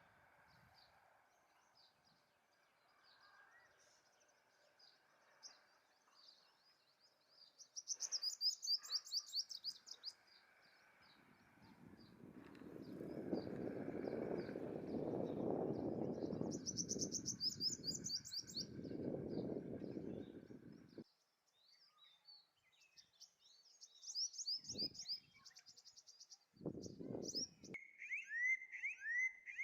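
Male purple sunbird singing: three bursts of rapid, high chirps, with fainter chirping between them. A low rumbling noise rises under the song around the middle and stops suddenly, and two short low thumps come near the end.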